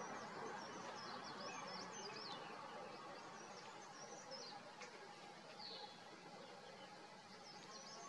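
Faint high-pitched bird chirps: quick, twittering notes that come in several short runs, over a steady background hiss of outdoor ambience.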